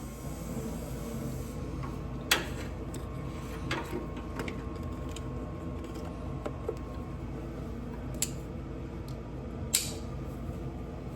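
Steady mechanical hum, like a fan or heater running, with a few scattered sharp clicks and knocks of hand tools and parts being handled during engine reassembly.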